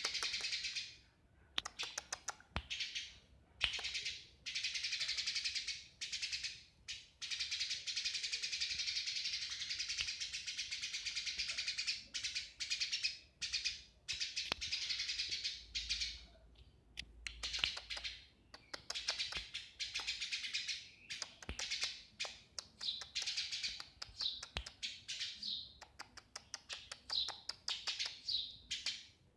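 Sparrows chirping in fast, dense runs of high chirps broken by brief pauses.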